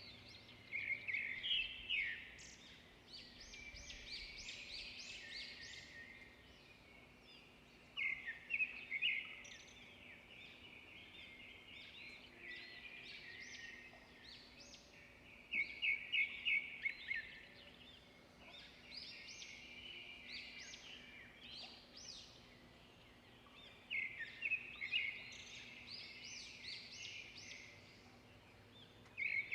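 Songbirds singing: loud bursts of rapid high notes every seven or eight seconds, with softer twittering between them.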